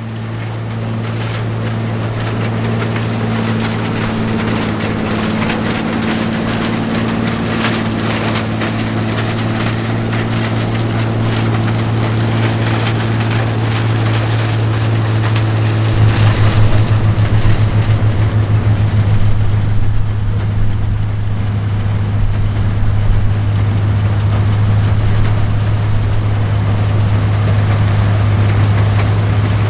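John Deere 105 combine running steadily under load while harvesting corn: a constant low engine hum over a broad hiss of threshing and machinery. About halfway through it grows louder, with a few seconds of throbbing.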